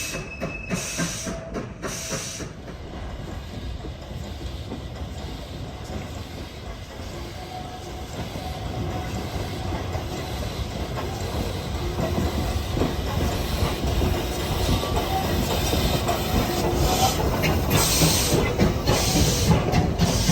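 Train running along the track, its wheels clattering steadily over the rails, the noise growing louder over the second half.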